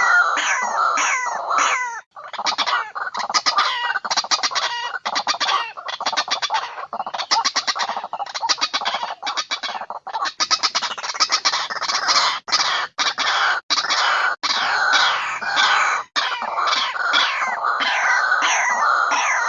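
White-breasted waterhen (ruak-ruak) calls played back as a bird-lure recording. The calls come in rapid pulsed phrases, repeated one after another almost without pause, with a few brief gaps.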